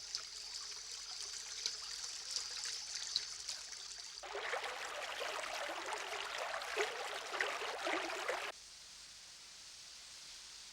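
Flowing river water in two shots: first a faint rush with a thin, steady high tone over it, then about four seconds in a louder, closer babbling of water that cuts off abruptly near eight and a half seconds in, leaving only a faint steady hiss.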